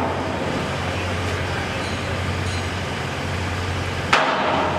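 Construction-site din: a steady low rumble and hum, with one sharp bang about four seconds in that rings out briefly.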